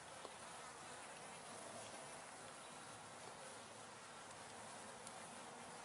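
Faint, steady buzzing of many honey bees flying around a busy hive.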